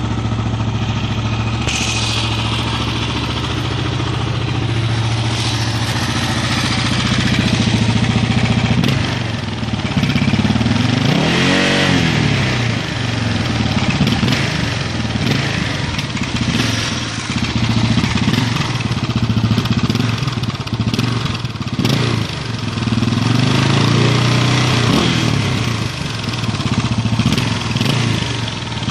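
Suzuki DR600's single-cylinder four-stroke engine running through a Remus aftermarket exhaust, idling with the throttle blipped a few times so the note rises and falls, most clearly about a third of the way in and again later.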